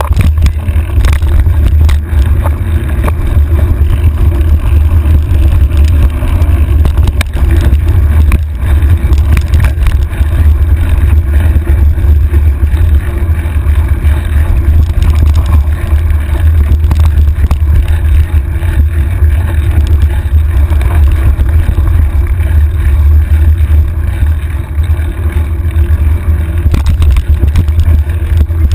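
Heavy wind buffeting on the microphone of a handlebar-mounted camera as a bike descends a rough trail at speed, with scattered rattles and knocks from the bike over rocks.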